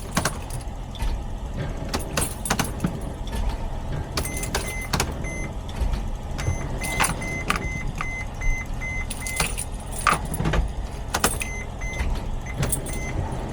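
Mercedes Sprinter van's dashboard warning chime beeping over and over at one high pitch, over a low rumble, with scattered clicks and knocks from handling in the cab.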